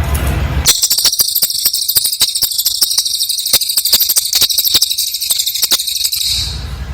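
Cililin bird singing a dense, high-pitched trill of very rapid, stuttering notes. The trill starts about a second in and stops shortly before the end.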